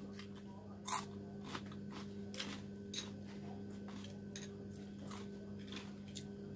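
Quiet eating: soft chewing and mouth sounds with a few light clicks of chopsticks against a small bowl of noodles, over a steady low hum.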